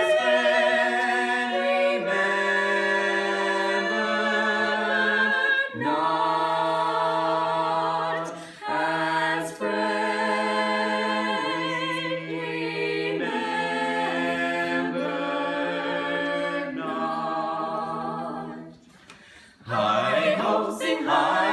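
A small a cappella choir sings held chords that move to a new chord every couple of seconds, with a short break near the end before the voices come back in.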